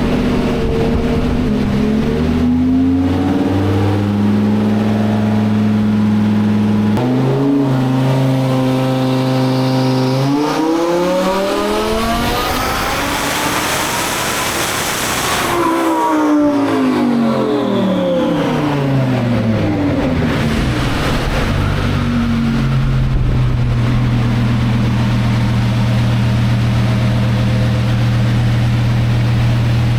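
Twin-turbo Lamborghini Huracán V10 making a full-throttle pull with the boost turned up a couple of pounds. The engine runs steadily at first, its pitch then climbs for about five seconds to a peak near the middle, and it falls back as the revs drop to a steady low drone near the end.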